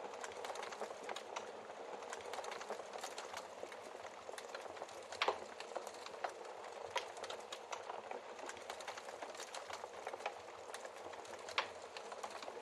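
Wood fire crackling steadily in a fireplace, with scattered sharp pops from the burning logs; the loudest pop comes about five seconds in, another near the end.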